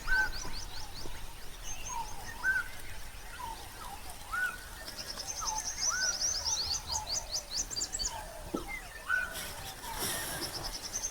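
Wild birds calling: a short rising whistle repeated about once a second, overlaid by fast runs of high chittering notes near the start and again through the middle.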